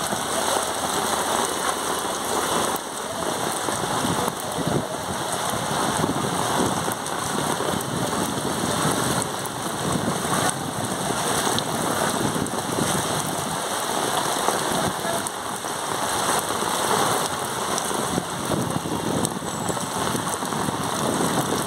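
Heavy rain falling steadily on a flooded street.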